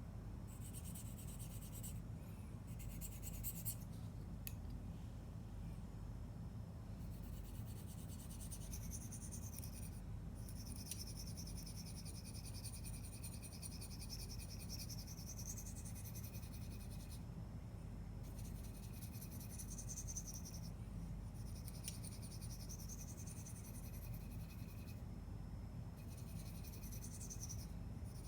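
Spyderco Lil' Native's S30V blade being drawn across a sharpening stone in repeated scraping strokes, each lasting from under a second to several seconds, with short pauses between them.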